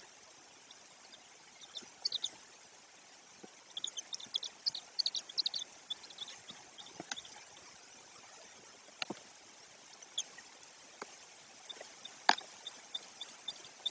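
Rain in a pine forest: a steady soft hiss with a few single water drops falling, the loudest about twelve seconds in. Clusters of short high chirps sound in the first half.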